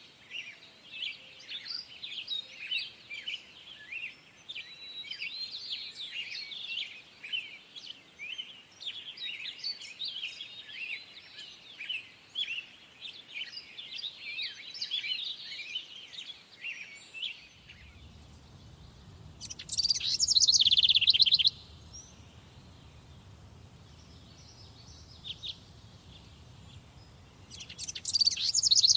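Songbirds singing in a summer forest: a dense chorus of many overlapping chirps and calls, which cuts off abruptly about two-thirds of the way in. A low rumble then sets in, and one loud trilled song phrase about two seconds long is sung twice, some eight seconds apart.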